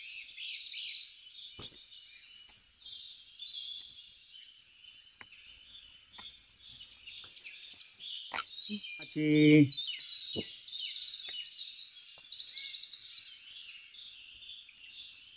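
Many small birds chirping continuously, with a few faint clicks and a short low hum about nine seconds in.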